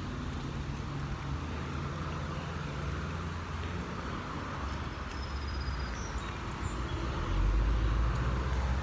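A steady low motor hum over outdoor background noise, growing louder near the end.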